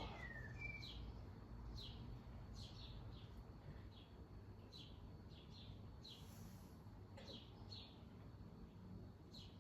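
Faint bird chirps: short high notes, each sliding down in pitch, coming irregularly about one or two a second over quiet background hum.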